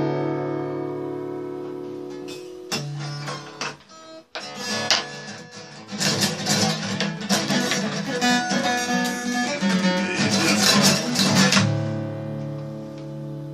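A guitar played with no singing. A strummed chord rings out and fades, a few single notes follow, and from about six seconds in comes a stretch of fast strumming that ends on a chord left ringing.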